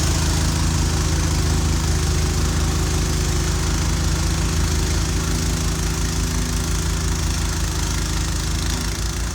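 Gas snow blower engine running steadily at a constant speed, with a broad hiss over its hum.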